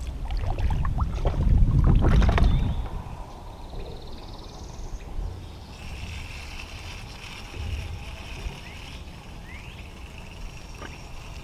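Knocks and rumbling handling noise aboard a kayak for about the first three seconds, then quieter outdoor ambience with a faint steady high hum.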